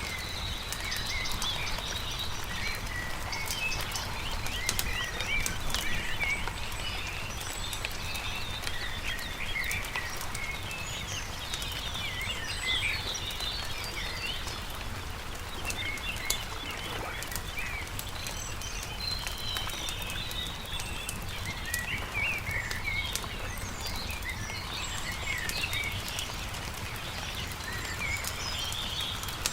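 Songbirds chirping and warbling continuously over the light crackle and snap of a wood campfire, with a steady low hum underneath.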